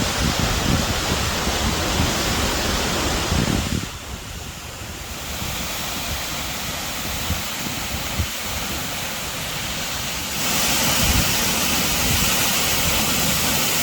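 Steady rush of a waterfall, with wind buffeting the microphone for the first few seconds. The level drops suddenly about four seconds in and jumps back up about ten seconds in.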